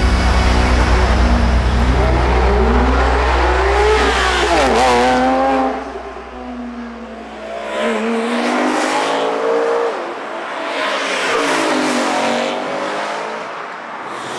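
Car engines accelerating hard, revving up in pitch through the gears in several pulls, one after another.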